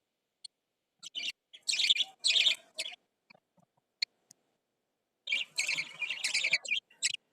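Lovebirds chirping in short, harsh bursts: a cluster of calls about a second in, a few scattered chirps, then a longer run of calls near the end, with silent gaps between.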